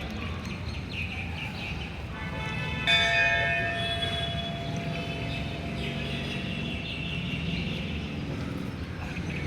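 A bell struck once about three seconds in, its ring holding several tones and fading away over the next few seconds, over a steady murmur of outdoor background noise.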